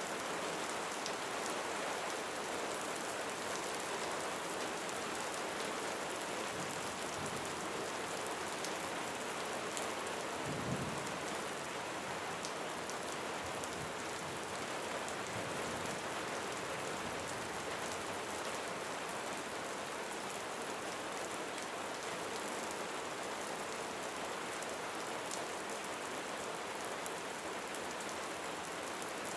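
Steady rain falling on a roof, an even hiss with many fine drop ticks. About a third of the way in there is a brief low thump.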